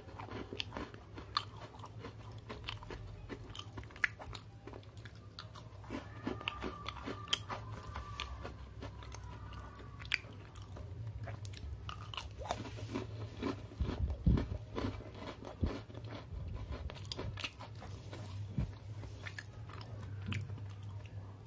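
Person biting and chewing a chocolate-creme Oreo sandwich cookie close to the microphone: an irregular run of small, crisp crunches.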